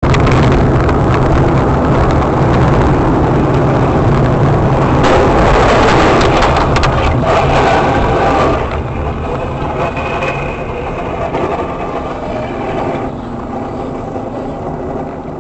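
Car engine and road noise from a moving vehicle, loud and steady, easing off somewhat about two-thirds of the way through.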